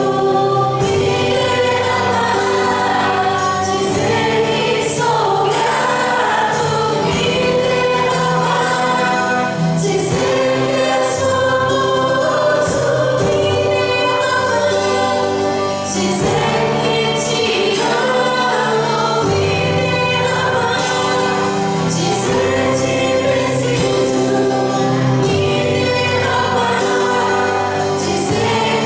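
A Christian worship song sung by a group of singers over instrumental backing, playing without a break.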